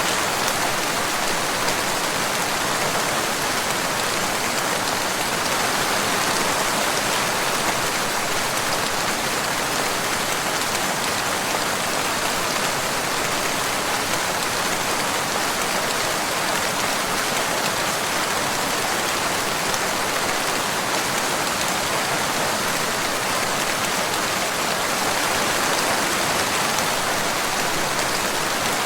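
Steady, even rain falling, a continuous hiss of many drops with no single drop standing out.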